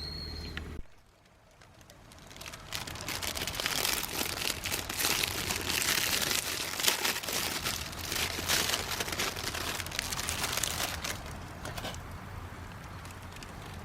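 Crinkly material being crumpled and handled: a dense run of crackling rustles that builds about two seconds in and dies down near the end.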